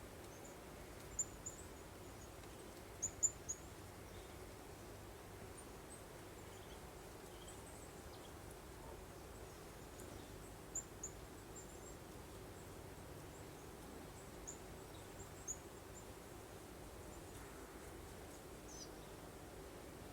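Small birds giving short, high chirps at scattered moments: a few about a second in, a quick cluster around three seconds, more near eleven and fifteen seconds, and one falling note near the end. Under them runs a faint, steady breeze-like hiss with a low hum.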